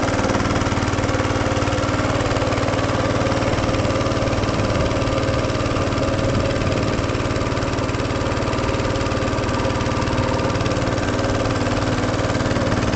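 An engine running steadily at an even speed, its pitch and level unchanged throughout.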